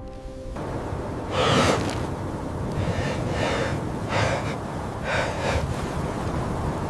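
Heavy, gasping breaths, about five of them spaced a second or so apart, over steady wind noise.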